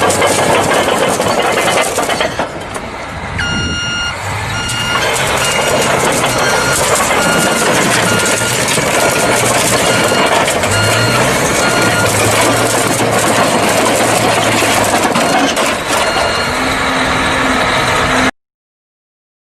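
A vehicle's electronic warning beeper sounds about once a second over loud engine and road noise. Everything cuts off abruptly near the end.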